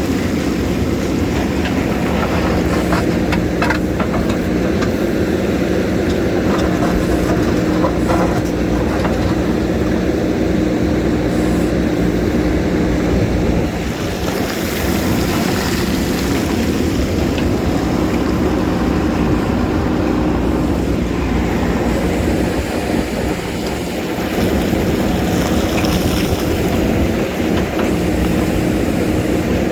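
JCB backhoe loader's diesel engine running steadily under working load, with scattered knocks and scrapes as it digs into rock. The engine eases off briefly about halfway through and again a few seconds later.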